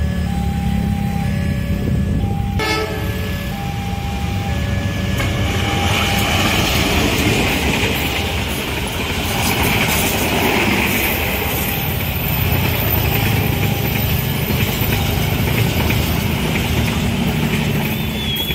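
Level-crossing warning bell sounding in short repeated tones over the low rumble of waiting motorcycle and car engines. From about six seconds in, a passenger train passes over the crossing with a steady rush of wheels on rails.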